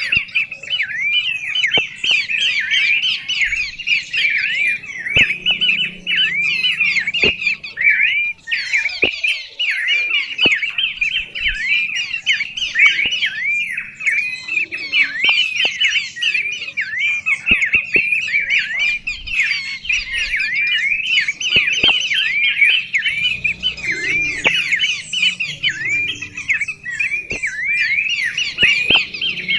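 Birds chirping continuously in rapid, overlapping calls, a dense chatter of many short notes, with a few faint clicks among them.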